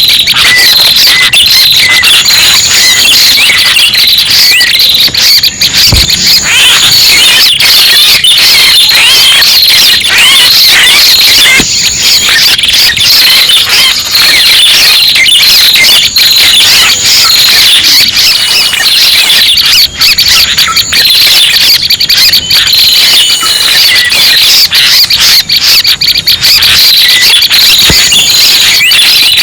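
Loud, unbroken lure recording of prenjak pala merah calls: rapid high chirps and trills overlapping without pause, with a short, higher note repeating about every six seconds.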